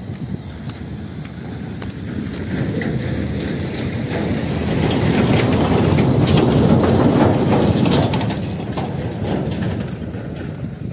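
A herd of dairy cows pushing into a stand of tall sorghum-sudangrass: a dense rustle of stalks and leaves with hoof falls, growing louder toward the middle and easing off near the end.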